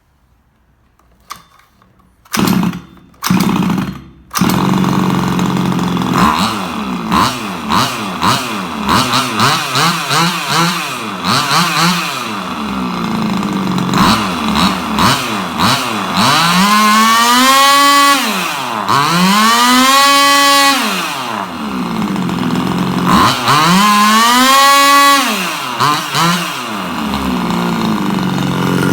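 Small 28 cc two-stroke engine with ported transfer channels: two brief bursts, then it starts about four seconds in and runs, revved up and down several times, with high revs in the second half.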